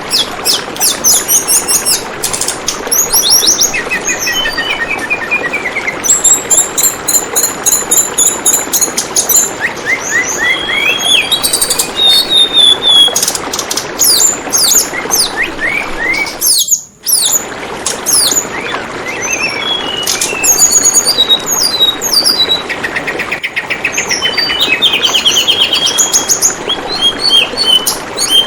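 Tledekan bambu calling: a dense stream of quick, overlapping high chirps and short trills over the steady babble of running water. The sound cuts out briefly a little past halfway, then carries on.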